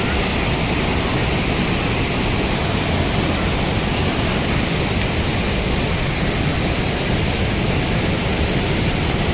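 Large waterfall rushing: a steady, loud wash of falling water with no breaks.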